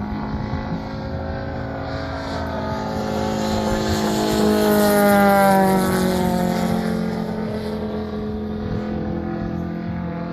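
Quarter-scale RC Pitts Special's five-cylinder rotary engine running steadily, growing louder and higher toward the middle, then dropping in pitch as the plane passes by.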